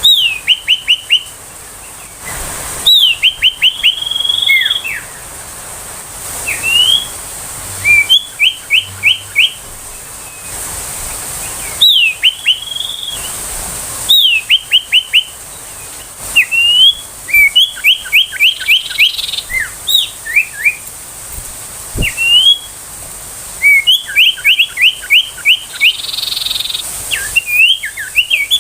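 Common iora (sirtu) calling: repeated phrases of quick whistled notes, each note sweeping downward, mixed with a few rising whistles, coming in bursts every second or two.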